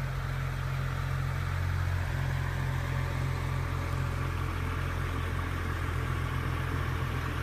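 BMW 535i's turbocharged straight-six idling steadily through an M Performance exhaust after a cold start, a deep, even drone.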